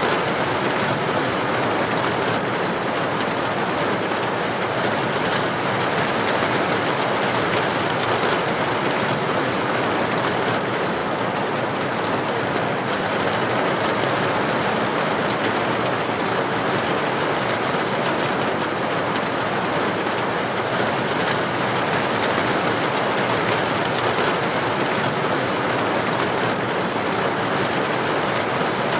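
Heavy rain falling steadily on a street: an even, unbroken hiss with no thunder.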